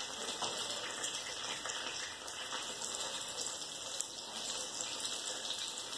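Omelette sizzling steadily in a frying pan on a gas stove, with a few faint taps of the utensil against the pan.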